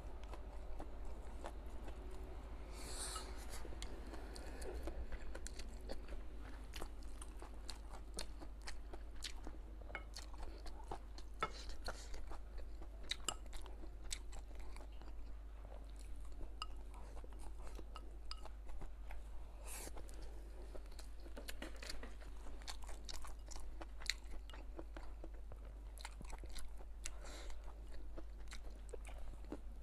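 A person chewing and crunching mouthfuls of stir-fried hot and sour chicken giblets with rice, heard close up as many small crunches and clicks.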